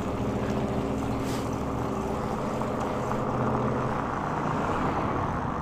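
A motor vehicle's engine running steadily, an even hum that holds one pitch, over a haze of road noise.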